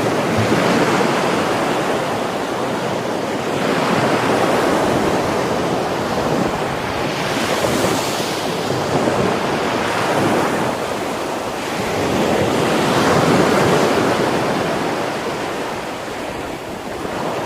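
Heavy sea surf breaking on a beach, the roar of the waves swelling and easing in surges every few seconds, with wind buffeting the microphone.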